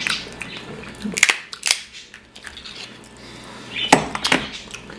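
Lobster shell being cracked apart, with sharp snapping cracks in two clusters, about a second in and again near four seconds.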